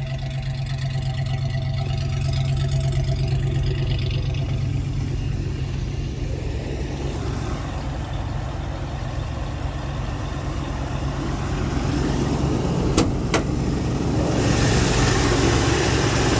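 A 1976 Ford F-150's engine idling steadily on a cold start. Two sharp clicks come about thirteen seconds in, and a second later the engine sound turns louder and brighter, as with the hood opened.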